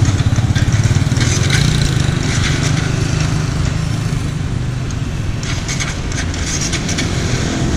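Honda Winner 150's single-cylinder engine idling steadily close by, with a few light clicks over it.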